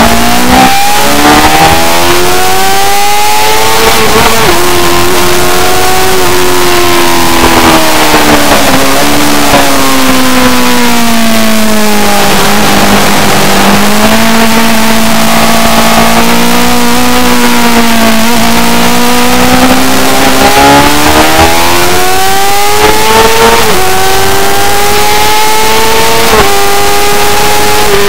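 A racing motorcycle's engine, loud and continuous, changing revs as it laps: the pitch climbs in the first few seconds, drops suddenly about four seconds in, sinks slowly to low revs through the middle, then climbs again and holds high near the end, over a steady rushing hiss.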